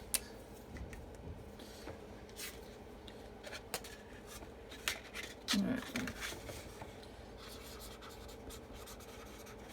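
Marker writing on the paper backing of a chalk transfer, with scattered light ticks and scratches. There is a brief vocal murmur a little past halfway.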